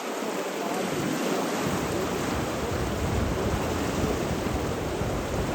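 Steady rushing water noise, with a deeper low rumble filling in about a second and a half in.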